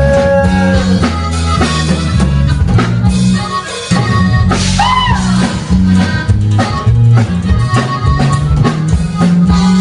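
A band playing an instrumental break between sung verses: drum kit, bass and guitar, with a brief sliding high note about halfway.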